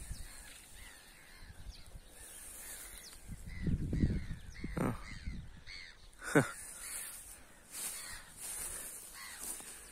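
Birds calling in the trees: repeated short, harsh chirps and squawks. About six seconds in there is one sudden louder sound.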